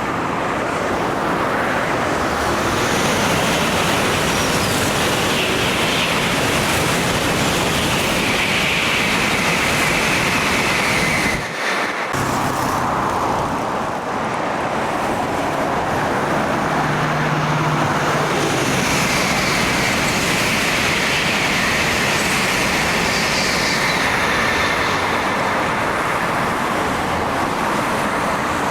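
Steady road traffic noise from vehicles passing on a busy highway, with a brief break about twelve seconds in.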